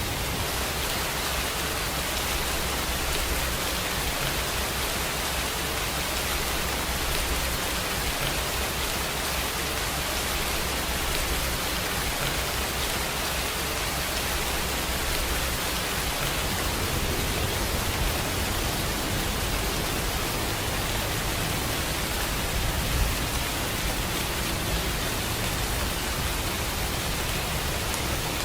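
Steady rainfall: a dense, even hiss of rain with no breaks, and an occasional slightly louder drop, the clearest about 23 seconds in.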